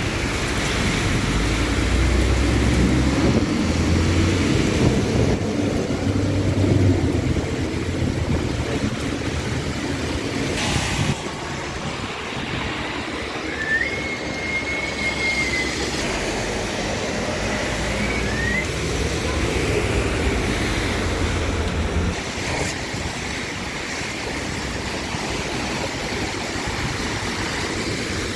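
Steady low rumble and hiss of outdoor noise, with a short thin whistle near the middle.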